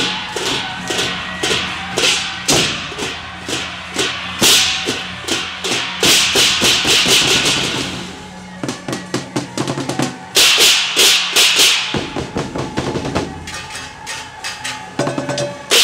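Taiwanese temple procession percussion of drums, gongs and cymbals beating a steady rhythm. There are two loud stretches of rapid, dense crashing, about six seconds in and again about ten seconds in.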